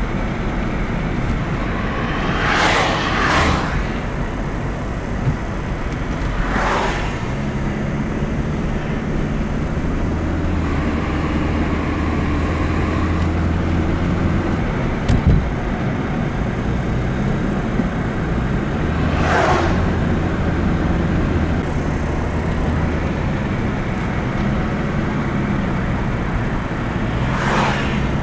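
Steady low rumble of a motor vehicle running, its engine pitch rising and settling. About five brief hissing rushes break over it, near the start, around 3 and 7 seconds in, about 20 seconds in, and near the end.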